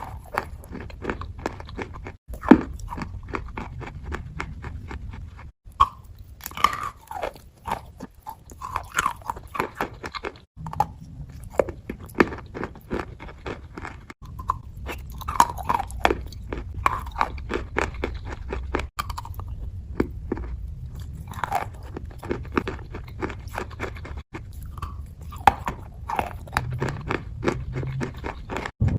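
Close-miked wet crunching and chewing of fake-eating ASMR, a dense crackle of crunches in short clips. Each clip breaks off suddenly every few seconds.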